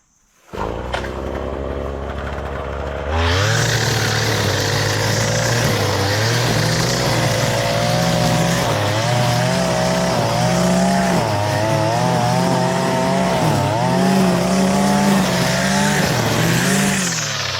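A petrol engine starts up and runs low, then about three seconds in speeds up and runs hard with a wavering pitch, as under changing load, before easing back to a lower speed near the end.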